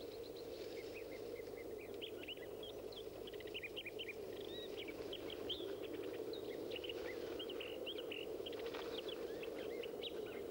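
Small birds chirping in many quick, short rising and falling calls, close together throughout, over a steady low background rush.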